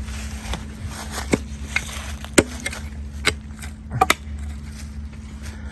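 Shovel digging in dirt around a buried engine block: scraping with irregular sharp strikes, the loudest about two and a half seconds in and a quick double strike near the end, over a steady low hum.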